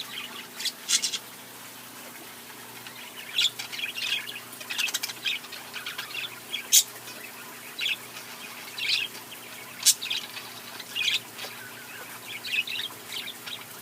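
Aviary parakeets (budgerigars) chirping in short, scattered high calls at irregular intervals, with two sharper, louder chirps.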